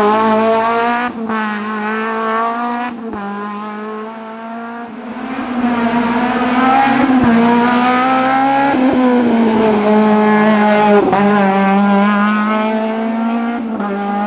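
Peugeot 309 GTI 16v rally car's four-cylinder engine revving hard through the gears, its pitch climbing and dropping again and again with gear changes and lifts off the throttle. It is quieter for a moment a few seconds in, then loud again.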